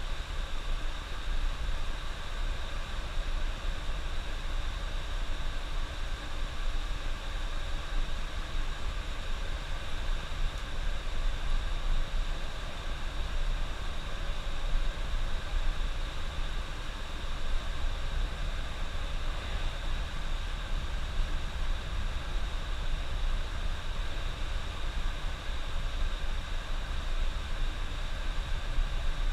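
Steady engine and road noise inside a coach bus's cab while it is being driven: a deep, constant rumble under an even hiss.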